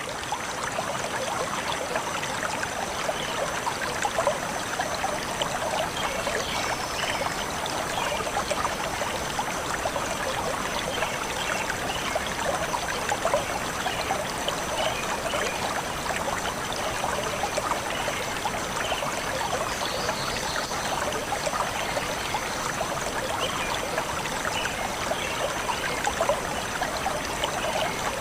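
A forest stream flowing steadily, its water trickling and gurgling in an even, unbroken rush.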